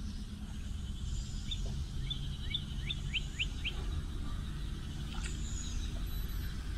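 Small birds chirping: a quick run of short rising chirps in the middle, with a few faint high whistles, over a low steady hum.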